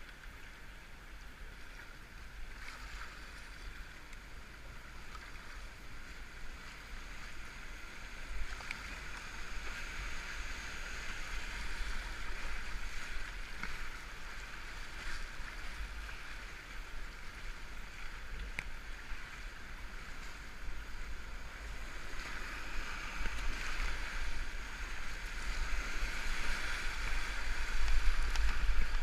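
Moving river water rushing around a whitewater kayak, heard muffled through a helmet-mounted GoPro's waterproof case. It grows louder near the end, with a few light knocks along the way.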